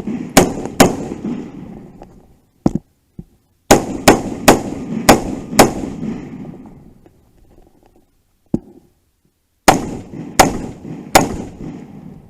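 Close-range gunshots fired in three strings: two near the start, five in quick succession about four to six seconds in, and four more near the end, each report trailing a long echo. Two fainter single cracks fall between the strings.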